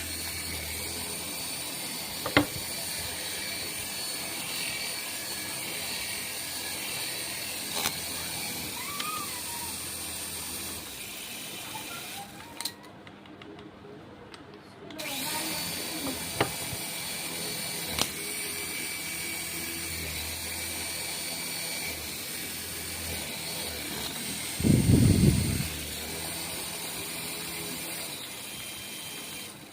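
Small electric motor of a remote-control toy running with a steady high whine. It cuts out for a couple of seconds near the middle, with a few sharp clicks and a short low rumble near the end.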